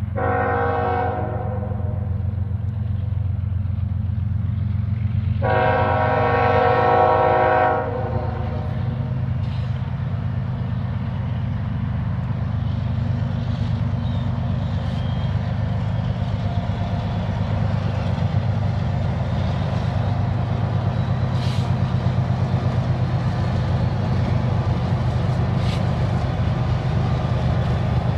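Freight train horn led by a GE ES44AC diesel locomotive: a short multi-note blast at the start and a longer one about five and a half seconds in. Under and after the horn, the low rumble of the ES44AC and two Dash 9 diesel engines carries on and grows a little as the train draws near.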